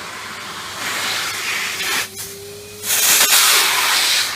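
Numatic Henry cylinder vacuum cleaner running on high, its motor humming steadily while the hose nozzle sucks at a small toy. The air rush through the nozzle swells loudly twice, about a second in and again near three seconds; between the two it drops away for a moment and the motor's hum rises slightly.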